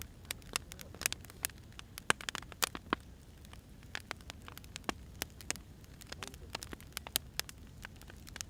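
Firewood burning, crackling and popping: irregular sharp pops over a low steady rumble, busier in the first three seconds.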